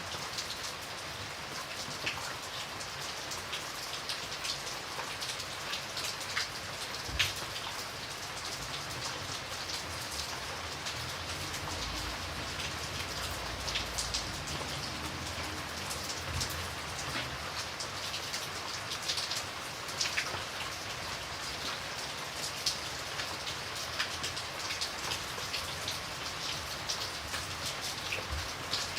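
Steady rain falling, with many individual drops ticking sharply on a surface and one louder drop about seven seconds in.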